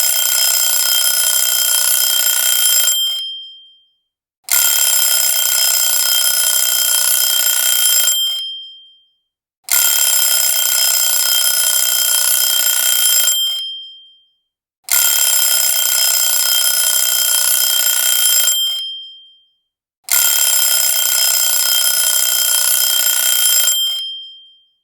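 Alarm clock ringing loudly in repeated rings: five rings of about three and a half seconds each, one about every five seconds, each dying away before a short silence.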